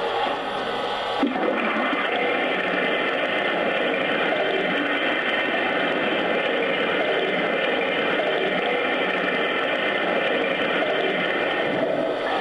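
Oil-fill sound effect from a Lionel Legacy O-scale 4-8-4 Northern locomotive's onboard sound system: a steady rush of pouring liquid that starts abruptly about a second in and runs on evenly until near the end.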